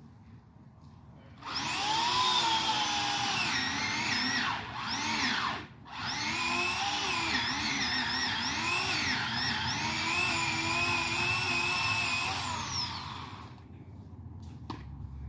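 Chainsaw cutting into an aspen trunk. It comes up to full throttle about a second and a half in, and its pitch wanders up and down as it bogs and recovers in the wood. The throttle drops off briefly near the middle, then the saw runs on and eases off near the end.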